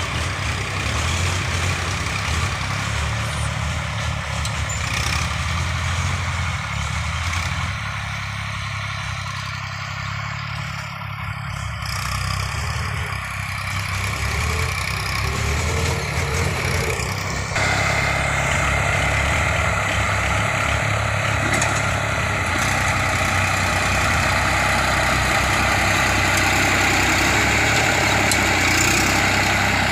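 Diesel tractor engine running steadily with a low, even drone; about 17 seconds in the sound steps up, louder and brighter.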